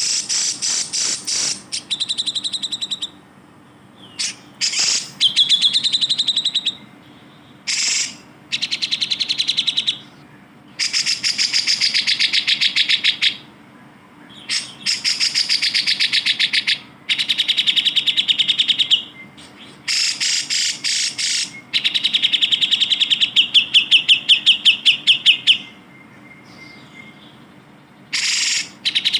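Cucak jenggot (grey-cheeked bulbul) singing: a run of loud phrases, each one to three seconds long, built of fast, evenly repeated chattering notes, with short pauses between phrases.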